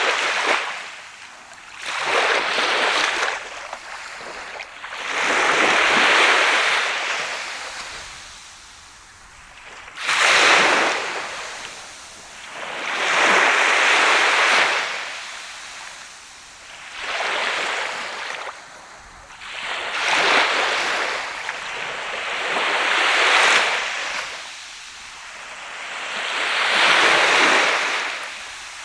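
Sea waves breaking and washing up a sandy beach, each wave swelling and falling away in turn about every three to four seconds.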